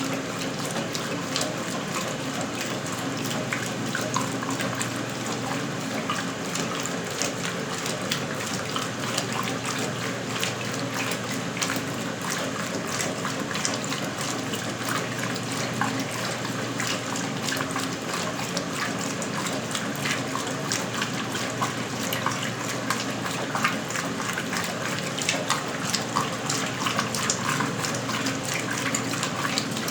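1977 Westinghouse Lavínia washing machine running with water in it: steady splashing and gushing over a low, even hum.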